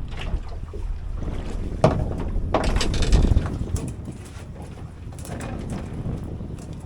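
Wind buffeting the microphone and water washing against the hull of a small fishing boat in a swell, with a sharp knock just under two seconds in and a louder splash of water about a second later.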